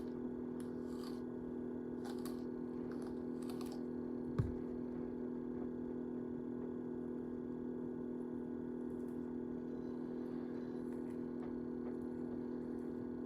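A steady low electrical hum, with a few faint clicks and rustles in the first few seconds and one soft knock about four and a half seconds in.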